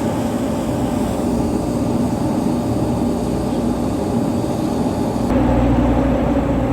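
Steady low mechanical drone of an idling diesel semi-truck. About five seconds in it shifts to a louder, deeper rumble.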